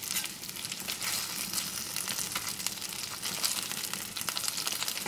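Breaded fish sticks frying in oil in a stainless steel pan: a steady sizzle with many small crackling pops.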